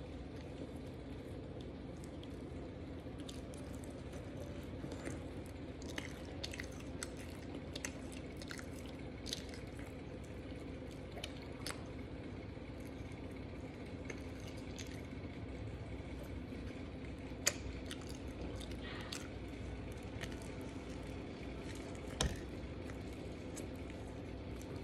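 Close-up chewing of a chicken sandwich: wet, squishing mouth sounds with scattered sharp clicks and smacks, a couple of them louder near the end. A steady low hum runs underneath.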